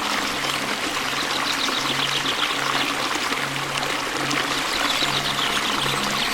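Waterfall: a steady, loud rush of falling water. Faint low tones come and go underneath.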